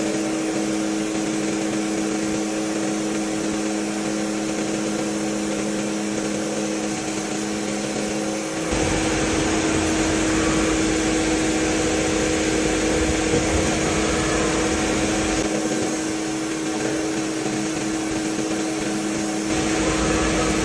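Workshop machinery running with a steady motor hum and whine. The sound changes abruptly three times, about 9, 15 and 19 seconds in, with a deeper rumble joining after the first change.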